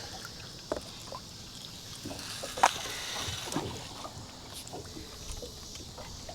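A few light knocks and clicks of fishing gear being handled in a boat, the clearest about two and a half seconds in, over a low steady hiss.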